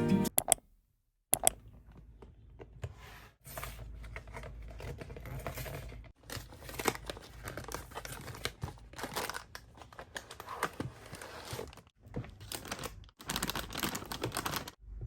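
Packaging being crinkled, rustled and torn, irregular crackling with sharp clicks, as a new hot plate is unpacked.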